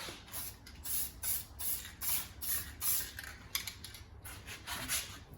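Aerosol spray paint can sprayed in a quick series of short hisses, about two a second.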